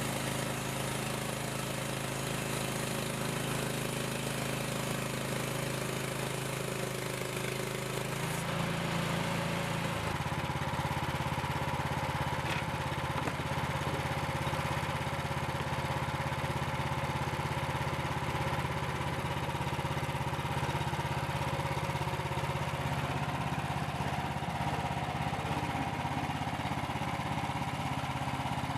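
Frontier portable band sawmill's engine running steadily. Its note shifts about eight to ten seconds in and holds at the new pitch.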